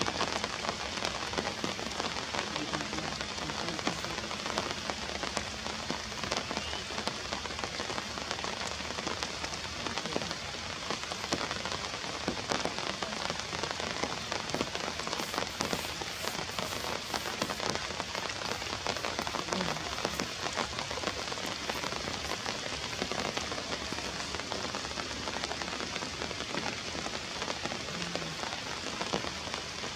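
Steady rain falling and pattering on surfaces, with many fine drop ticks.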